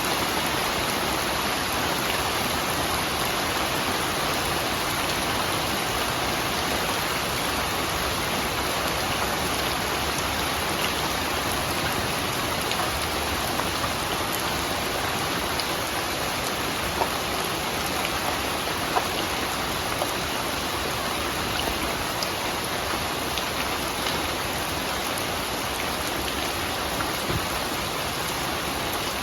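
Steady rain: an even hiss of falling rain, with a few single drops ticking out above it now and then.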